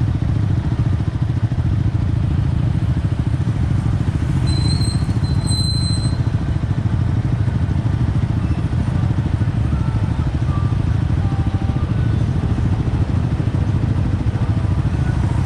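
Yamaha XSR 155's single-cylinder engine running steadily, with no revving. Two short high tones sound about four and a half and six seconds in.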